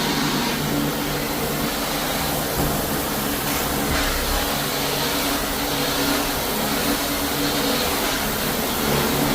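A floor-cleaning machine running steadily, with a vacuum-like motor hum and hiss that hold even throughout.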